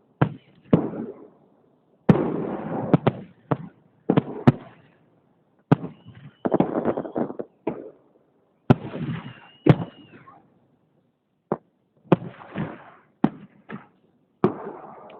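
Fireworks salute: aerial shells bursting in quick succession, sharp bangs each trailing off in a rumble, some in clusters of two or three. A high whistle sounds twice among the bursts.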